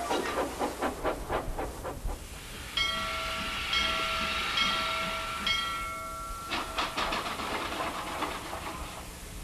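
Steam locomotive sound effects: rhythmic chuffing, then about three seconds in a steam whistle is held for nearly four seconds over a hiss of steam, and the chuffing resumes afterwards.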